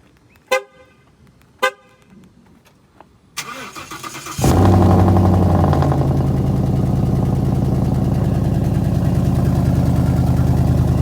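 Two short car-horn chirps about a second apart, then the starter cranks for about a second and the car's engine catches with a flare. It settles into a loud, steady cold-start idle that still sounds good.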